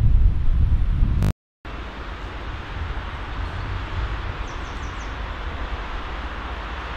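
Low rumble from a train that has just passed, cut off abruptly after about a second; then the steady, distant running noise of an approaching train that slowly grows louder, with a few faint high chirps midway.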